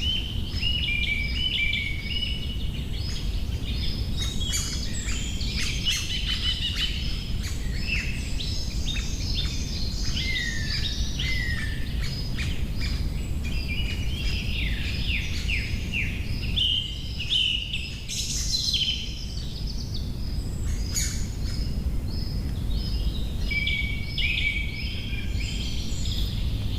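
Wild birds chirping and singing, many short calls and trills overlapping throughout, over a steady low rumble.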